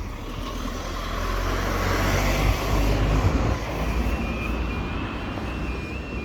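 A road vehicle passes with a low rumble, loudest about two to three seconds in. About four seconds in, the level crossing's audible warning alarm starts: a high two-tone yodelling beep that warns of an approaching train.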